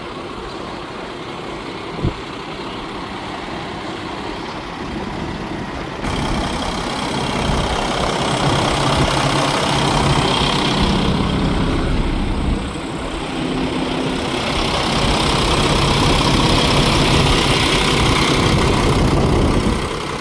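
Paccar MX-13 diesel engine of a 2016 Peterbilt 579 truck idling, then running louder at higher revs in two stretches with a short drop between them, and falling back near the end; a single click about two seconds in.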